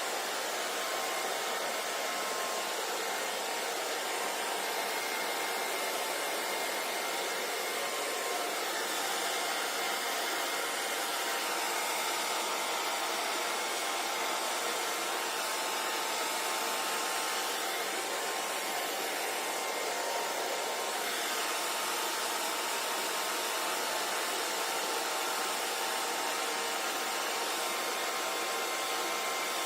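Hair dryer blowing steadily: an even rushing whoosh of air with a faint motor whine.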